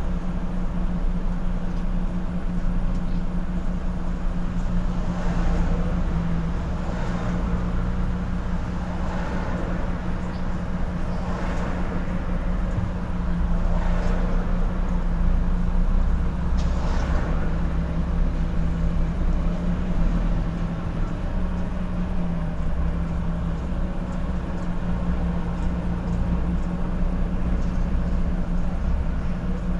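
Truck engine droning steadily with road rumble while driving, with brief swells of noise now and then.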